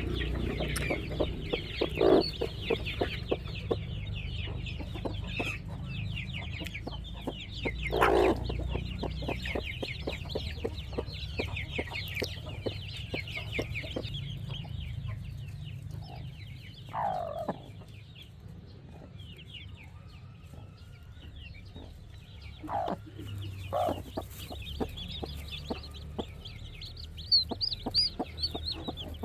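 A flock of chickens: many chicks cheeping continuously in short high calls, with a few louder, lower clucks from a hen scattered through.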